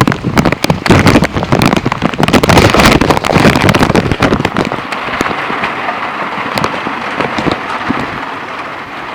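Heavy rain with big drops hitting the plastic bag that covers the camera, a dense loud clatter for about the first five seconds that then settles into a steadier, quieter rain hiss with scattered drops.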